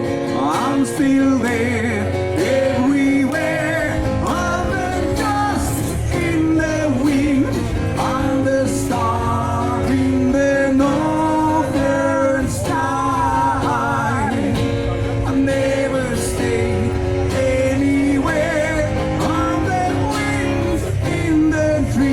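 Acoustic guitar accompanying an audience singing the melody together, a live sing-along.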